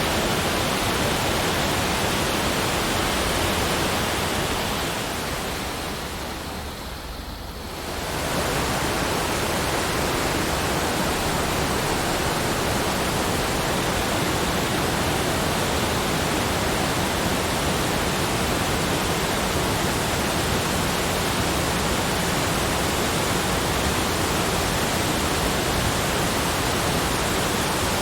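Steady, even rushing noise from a nature-sounds track. It fades down briefly about five seconds in and swells back about eight seconds in.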